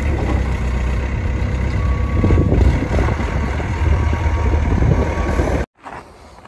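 Semi-truck's diesel engine running steadily with a heavy low rumble, which cuts off suddenly near the end.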